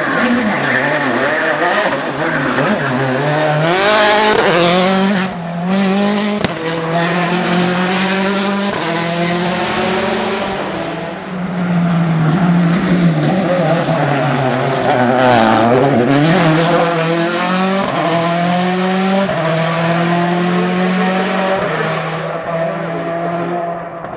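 Citroën C4 WRC rally car's turbocharged four-cylinder engine revving hard, its pitch climbing and dropping again and again through gear changes and braking. There is one sharp crack about six and a half seconds in.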